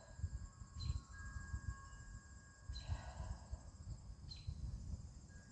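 Insects, crickets or similar, trilling steadily outdoors, with short chirps repeating about every one and a half seconds. A low, uneven rumble runs underneath.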